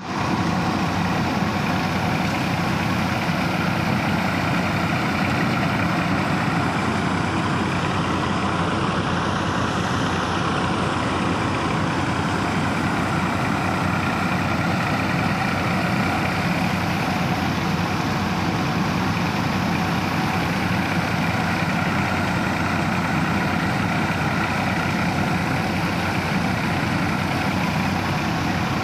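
Massey Ferguson 240 tractor's three-cylinder diesel engine running steadily.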